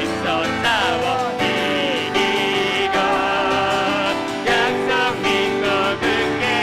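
Live worship song: vocalists singing a hymn-like melody with vibrato over steady instrumental accompaniment.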